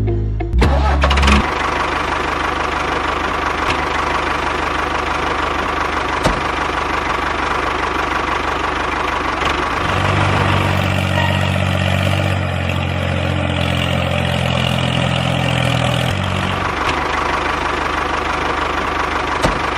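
An engine or motor running steadily, with a deeper low hum that swells for several seconds about halfway through.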